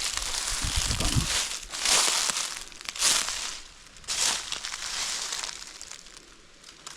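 Footsteps crunching through forest-floor debris, about one step a second, fading out near the end.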